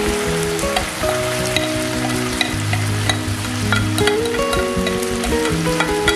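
Cubed chicken breast frying in oil in a non-stick pan: steady sizzling with many small crackling pops. Under it run low held notes that step in pitch every half second or so.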